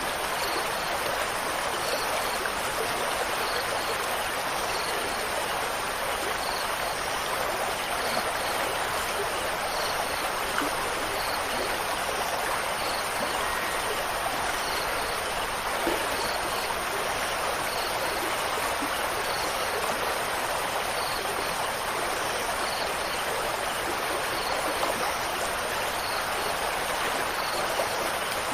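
Steady rushing water, an even continuous wash with no breaks. Faint high chirps recur every second or so.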